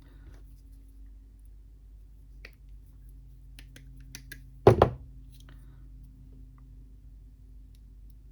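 Scattered light clicks and taps from small parts and tools being handled, then two sharp knocks in quick succession about halfway through, over a steady low hum.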